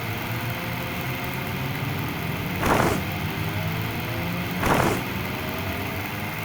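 A vehicle engine running steadily with a low hum, with two brief whooshing sweeps about three and five seconds in.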